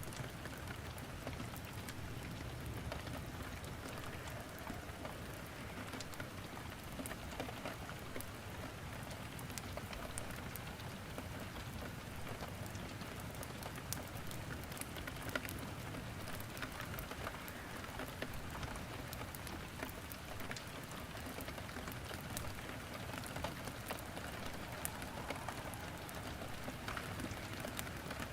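Steady rain falling, with scattered sharp crackles and pops from wood burning in a fireplace.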